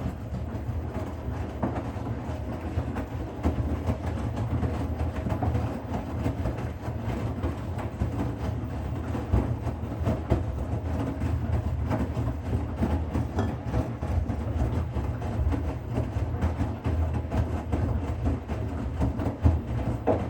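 Bosch Serie 6 front-loading washing machine running: a steady low rumble with continual light rattling and clicking from the turning drum, starting abruptly.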